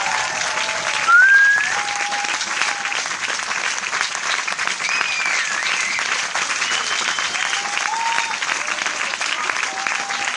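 Large crowd applauding steadily, with whistles and cheers rising over the clapping; a loud rising whistle about a second in.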